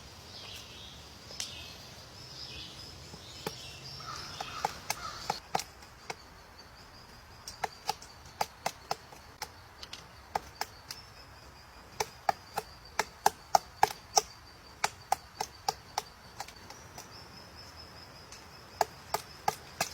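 Sharp, irregular knocks or taps in quick runs, like something striking wood, over a steady high-pitched insect drone.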